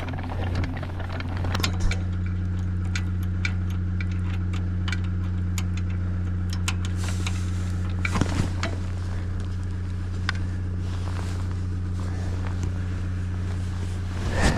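A vehicle engine idling steadily, with scattered light clicks and a couple of knocks on top.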